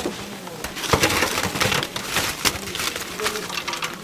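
A rapid string of sharp knocks and clatter, several a second, with faint short pitched sounds underneath.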